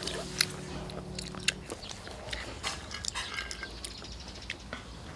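Close-up eating sounds as ramen is chewed, with scattered short clicks and taps. A few held steady tones underneath stop about a second and a half in.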